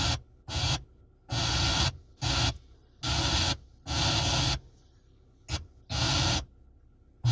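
Car radio stepping through stations: about eight short bursts of sound, each under a second long, broken by quiet gaps, before it settles on a station playing music.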